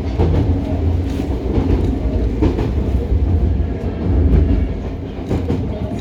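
Inside a Hokuriku Railroad 03 series trailer car running along the track: a steady low rumble, with the clack of the wheels over rail joints every second or so.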